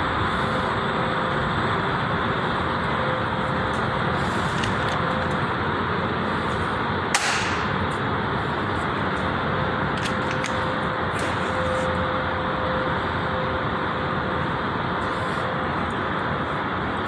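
Steady motor-vehicle or traffic noise at an even level, with one sharp crack about seven seconds in.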